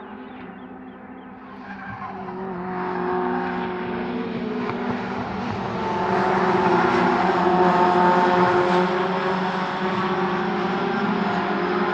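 Racing car engines at high, fairly steady revs, growing louder as the cars come closer and passing loudest about two-thirds of the way through.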